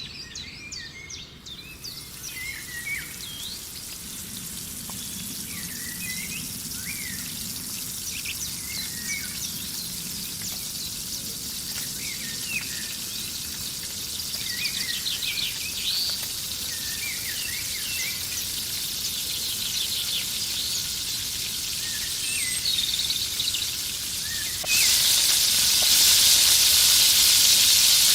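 Food frying in hot oil: a steady sizzle that grows louder, then jumps sharply louder near the end. Birds chirp over it.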